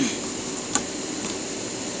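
Digital multimeter in diode mode beeping continuously with a steady high tone while its probes rest on two points of the drive's power card, signalling a direct connection between them. A small click about three-quarters of a second in.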